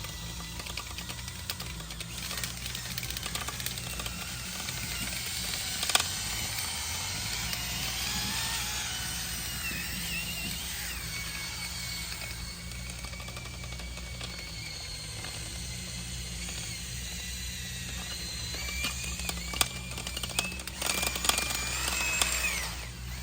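DeWalt drill spinning a flexible rod brush through a dryer vent line. The motor whine wanders up and down in pitch under a steady low hum, with a few sharp clicks and knocks. The drill cuts off near the end.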